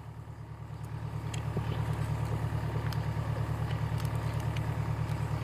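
Volvo skid steer's diesel engine idling, a steady low rhythmic engine note.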